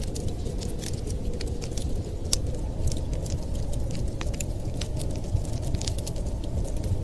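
Wood fire crackling: many sharp, irregular pops and snaps over a steady low rumble.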